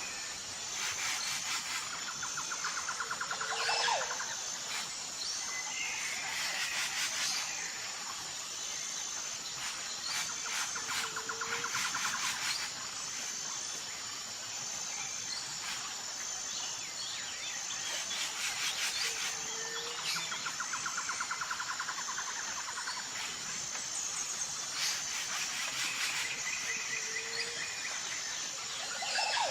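Tropical forest ambience: an insect keeps up a steady, evenly pulsing high buzz while several birds call with trills and whistles. A short low whistled note recurs about every eight seconds.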